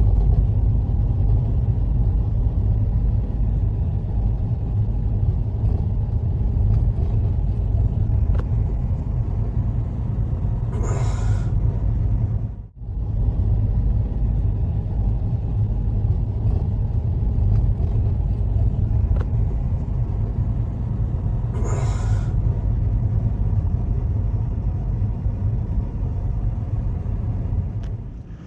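Strong storm wind rumbling heavily against the microphone, with two brief gusts that hiss higher, one about a third of the way in and one about three quarters in. The sound drops out for an instant near the middle.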